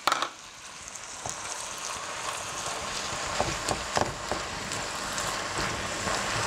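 Chopped tomatoes sizzling as they hit a hot pan of sautéed rice and vegetables. The sizzle grows steadily louder while a spatula stirs them in, with a few short knocks of the spatula against the pan.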